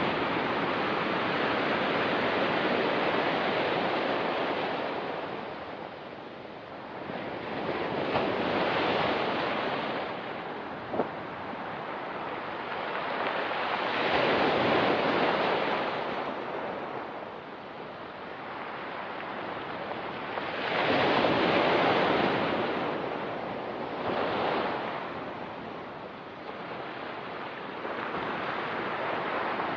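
Ocean surf washing onto a rocky pebble beach, each wave swelling up and then drawing back every several seconds.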